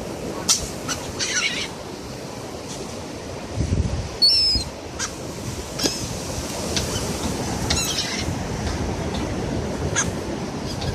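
Seagulls calling in short, scattered cries, with the loudest about four seconds in and a quick run of calls near eight seconds, over a steady low rumble of wind and surf.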